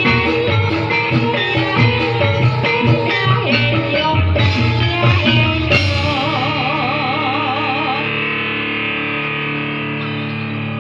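Live Topeng Ireng accompaniment music: a driving drum-and-band rhythm that stops about six seconds in, leaving a held chord with a wavering melody note over it.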